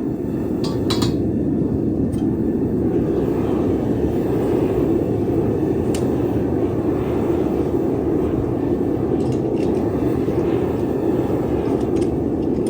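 Burner of a metal-melting furnace running with a steady, deep roar, with a few faint clicks about a second in, midway and near the end.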